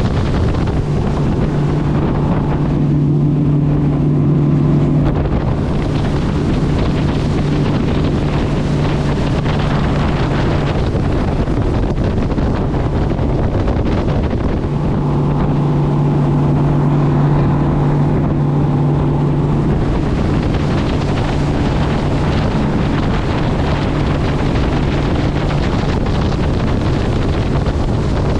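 Motorboat engine running steadily under way, its hum swelling twice, with wind buffeting the microphone.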